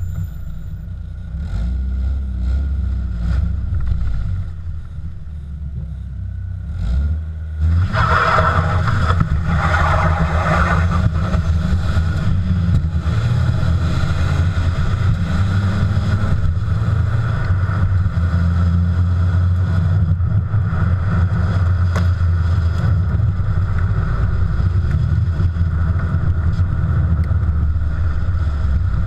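BMW E46 with a Novus aftermarket exhaust running. It is quieter for the first seven or eight seconds, then louder from about eight seconds in and steady after that.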